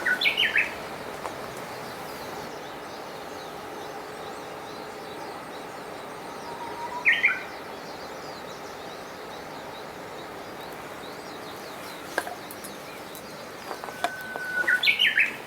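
A songbird sings a short phrase three times, about seven to eight seconds apart. Each phrase is a held whistle followed by a few quick higher notes, over the steady rush of a mountain stream.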